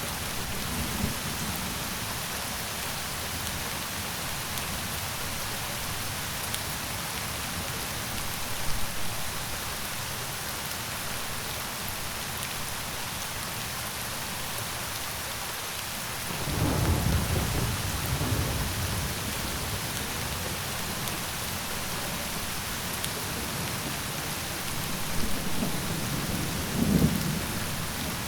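Steady rain, with low rolls of thunder rumbling in about halfway through and again near the end.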